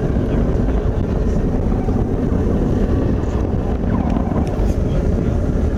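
Steady, loud low rumble of the Atlas V rocket's RD-180 engine heard from the ground as the rocket climbs.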